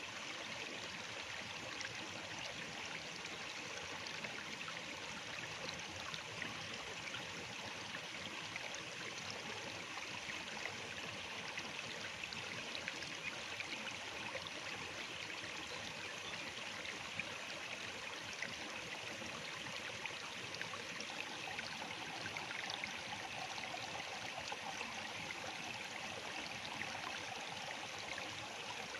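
Water flowing steadily in a stream, a continuous rush with fine trickling and splashing.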